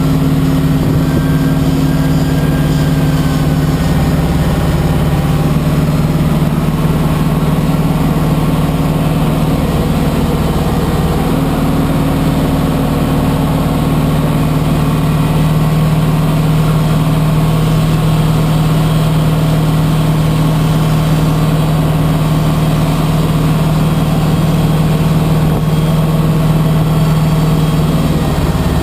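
Aircraft pushback tug's engine running steadily under load, a loud low drone whose pitch shifts slightly a few times.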